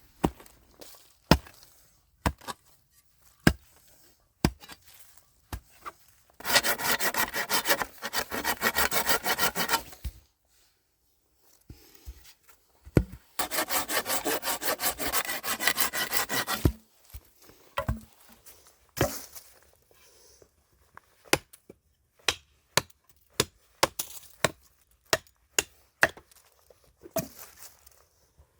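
Hand saw cutting through wood in two bouts of quick, even strokes, each about three to four seconds long. Scattered sharp knocks and clicks come between and after the bouts.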